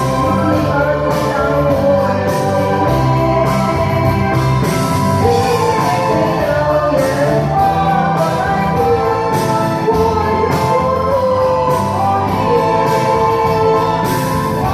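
A singer singing a song over instrumental backing with a steady drum beat.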